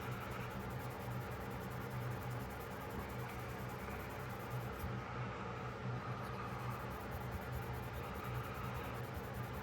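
Faint rubbing of a polishing cloth on a pocketknife's steel blade, steady and continuous, over a low hum.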